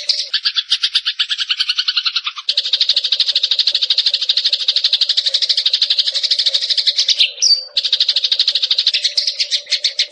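Eurasian tree sparrow (burung gereja) giving a fast, unbroken chattering trill of rapidly repeated high notes, with a short higher note about seven and a half seconds in.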